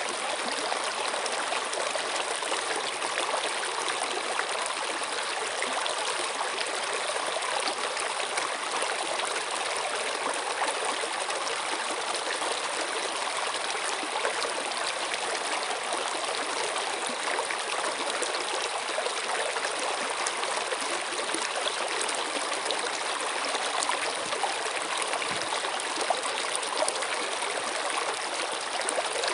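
Running water of a stream or brook, a steady, even rush with small splashes and trickles throughout.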